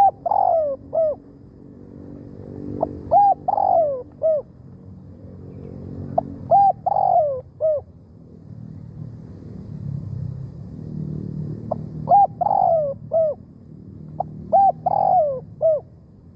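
Spotted dove cooing: five phrases of a few short, falling coos each, with a longer pause in the middle.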